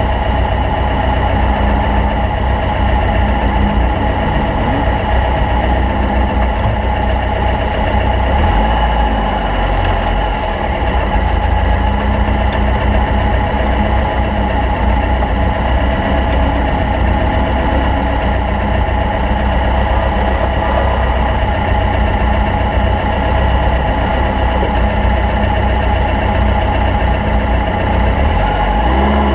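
Stock Volkswagen Beetle race car's engine running continuously over a heavy low rumble, its pitch repeatedly rising and falling as the engine speed changes.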